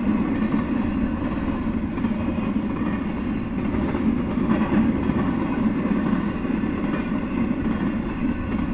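Double-stack intermodal freight train rolling past, a steady low noise of steel wheels on the rails.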